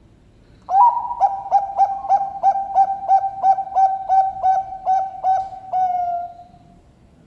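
Zebra dove (perkutut, Bangkok strain) singing its cooing song: a run of about fifteen quick, even coos, about three a second, ending in one long drawn-out note.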